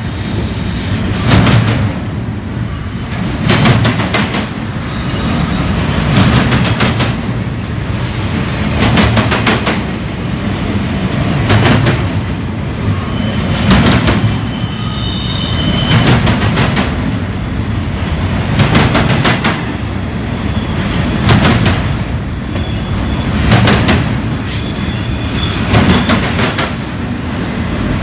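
Double-stack intermodal well cars of a freight train rolling past, their wheels clattering on the track with a loud beat about every two and a half seconds. Brief high-pitched wheel squeals come through near the start and again about halfway.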